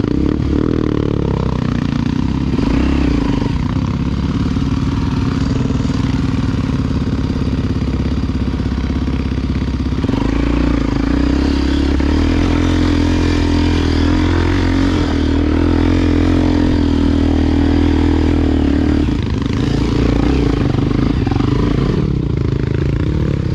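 Honda XR Tornado dirt bike's single-cylinder four-stroke engine running under load on the trail. Its pitch rises about ten seconds in, holds steady, and eases off briefly about nineteen seconds in.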